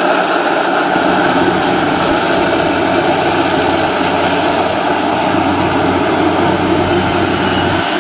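Loud, steady engine drone of a heavy tracked crawler machine, starting abruptly just before and holding without change.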